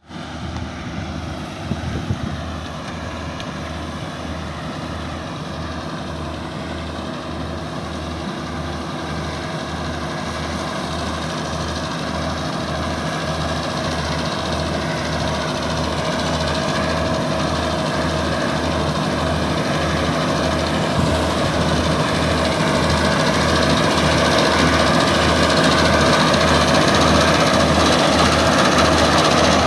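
Wheat harvesting machine running steadily, an even engine note over a low pulsing of a little more than one beat a second, growing gradually louder.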